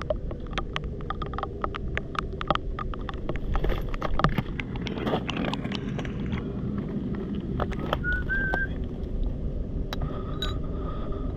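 Outdoor ambience while searching a muddy foreshore in the rain: a steady low rumble with many scattered small clicks and taps, and a short whistled call that rises then holds, about eight seconds in.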